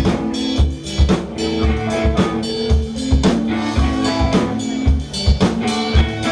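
Live rock band playing an instrumental stretch without vocals: drum kit keeping a steady kick beat about twice a second under droning bass and electric guitar notes.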